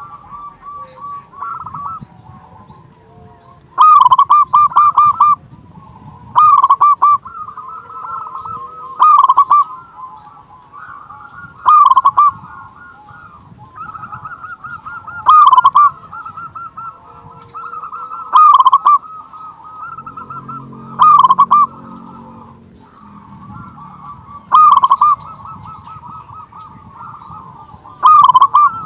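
Zebra doves (perkutut) cooing: one loud, close bird gives its phrase of quick repeated coo notes about every three seconds, over softer steady cooing from other doves.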